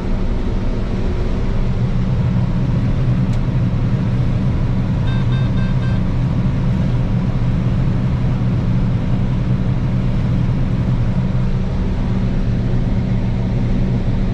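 Combine running steadily with a deep, even hum while harvesting soybeans. A short series of high beeps sounds about five seconds in.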